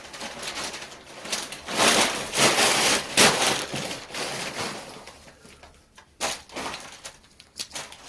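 Dry firewood and kindling being handled at a wood-fired furnace: a loud stretch of rustling and cracking about two to three and a half seconds in, then scattered sharp cracks.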